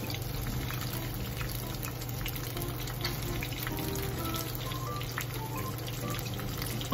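Masala-coated crab pieces shallow-frying in hot oil: a steady sizzle with frequent small crackles and spits as more pieces are laid into the pan.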